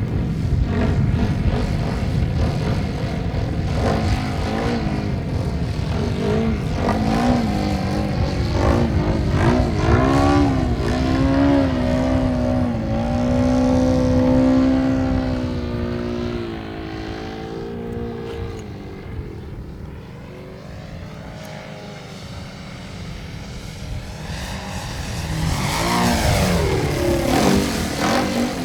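Radio-controlled model airplane's engine and propeller droning in flight, the pitch sliding up and down as the plane passes and changes throttle. It fades about two-thirds of the way through as the plane moves away, then comes back louder near the end, over a steady low rumble.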